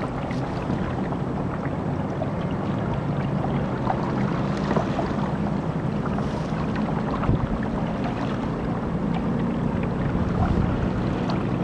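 Electric kayak under way: water rushing along the hull and wind on the microphone, with a low steady hum.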